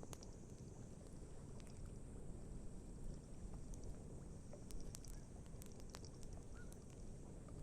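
Wood campfire crackling, with scattered sharp pops and snaps over a steady low rush of outdoor background noise. A faint short chirp sounds near the end.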